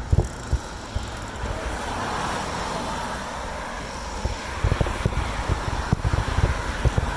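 Wind buffeting the microphone while riding a bicycle. In the middle, a smooth rushing noise swells and fades as a car passes, and the wind gusts pick up again near the end.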